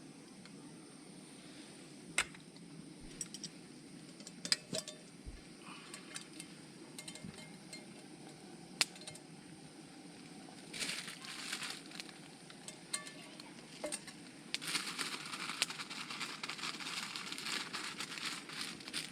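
Camp cookware clinking and knocking, then food sizzling and crackling in a hot pan, briefly about eleven seconds in and again steadily from about two-thirds of the way through.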